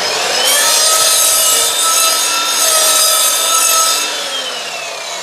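Evolution R255SMS-DB+ mitre saw with a multi-material blade: the motor's whine finishes rising to speed, the blade cuts through a piece of wood for about three and a half seconds, then the motor winds down with a falling whine.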